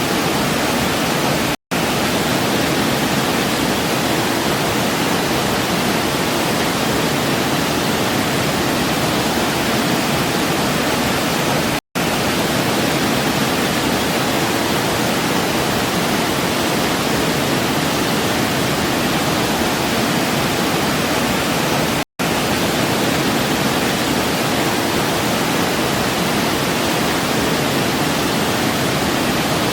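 Waterfall's steady water noise, even across low and high pitches. It cuts out to silence for an instant three times, about ten seconds apart.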